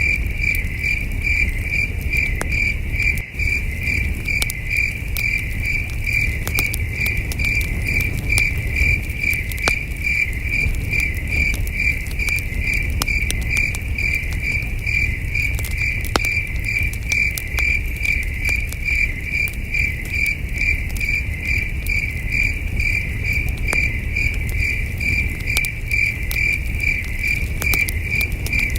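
Crickets chirping in a steady, even pulsing rhythm, with a campfire crackling in scattered sharp pops over a low rumble.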